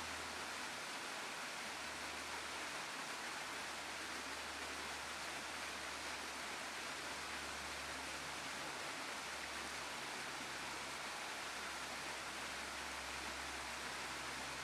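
Steady sound of a waterfall: an even, unbroken wash of falling water.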